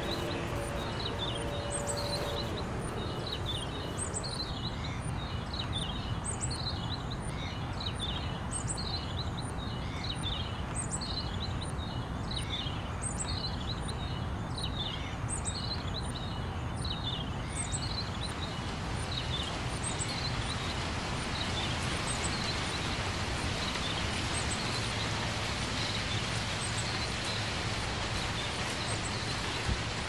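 Birds chirping, short calls repeating about once or twice a second, over a steady rushing noise. About two-thirds of the way through the chirps fade out while the rushing grows a little brighter.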